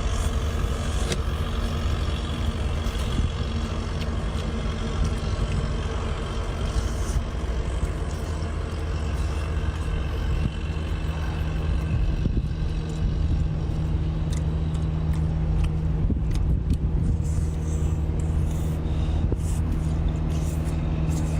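Steady running of an engine: a constant low drone with a steady hum, unchanging in pitch, with a few faint clicks in the second half.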